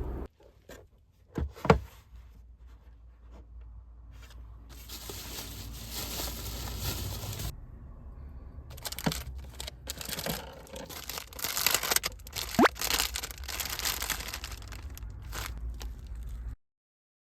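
Tearing and crinkling handling sounds in a run of irregular short bursts, with a sharp click about two seconds in.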